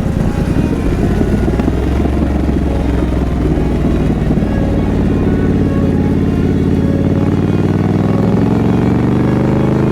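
Triumph Scrambler 900's parallel-twin engine running as the motorcycle rides along, its exhaust note uneven at first, then steadying and rising in pitch near the end as the bike accelerates.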